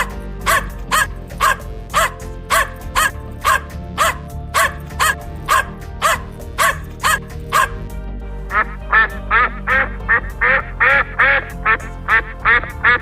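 Short animal calls repeated evenly about twice a second, then from about eight seconds in a faster run of duck quacks, over background music.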